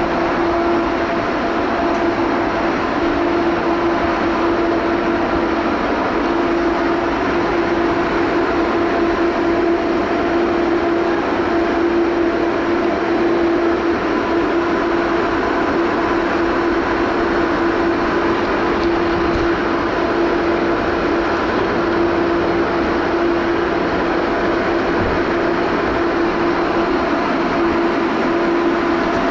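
Train running: a loud, steady noise with a constant hum that does not change.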